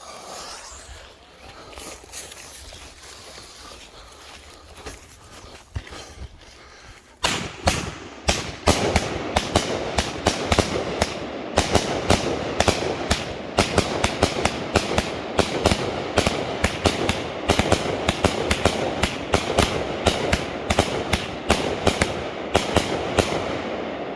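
A 36-shot consumer firework cake: about seven seconds of quiet fuse hiss, then shots launching in quick, continuous succession, the launches and air bursts of its crown-style breaks overlapping for the rest of the time.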